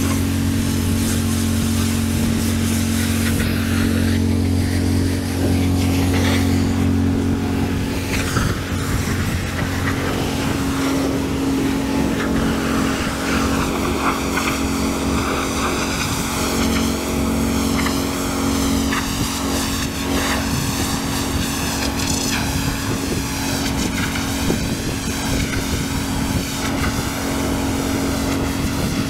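Pressure washer running: a steady engine drone that shifts in pitch about ten seconds in, with a wavering hiss of water spray.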